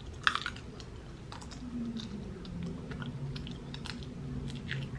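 Close-miked chewing and lip-smacking on a mouthful of seafood boil, with scattered sharp wet clicks, the loudest just after the start.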